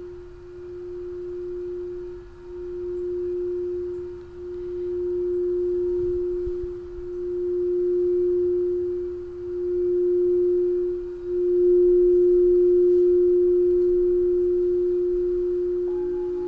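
Crystal singing bowl sounding one pure, steady tone that swells and fades in slow waves every couple of seconds, then rings out louder about eleven seconds in and slowly dies away. Near the end a second, lower bowl tone comes in, wavering in a quick beat.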